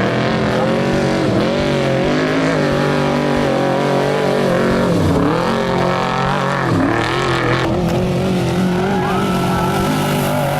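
Trophy truck's V8 engine running hard at high revs, its note dipping and climbing back three times as the driver lifts or shifts.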